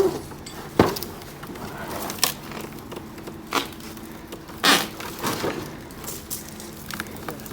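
Scattered sharp knocks and clanks, about half a dozen a second or more apart, over a faint low steady hum, from rigging and handling work during a crane lift.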